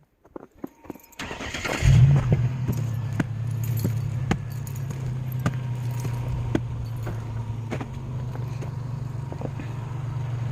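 A car engine starting about two seconds in, then settling into a steady idle, with a light click repeating about once a second.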